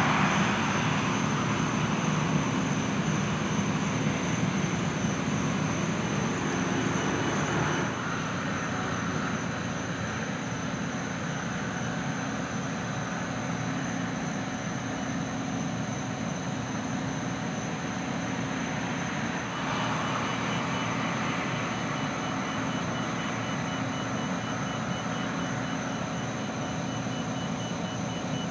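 Truck engines running steadily, a low rumble under a constant thin high tone, with the sound changing abruptly twice.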